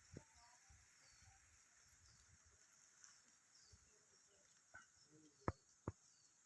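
Faint mountain-village countryside ambience: a steady high insect drone with a few short bird chirps, and a handful of sharp clicks, the loudest two close together near the end.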